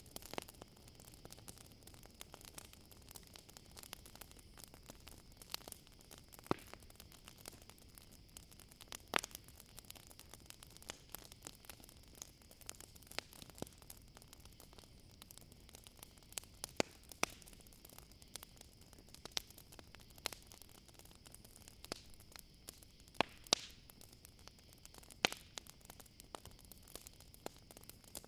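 Campfire crackling, with scattered sharp pops, over a steady high chirring of crickets.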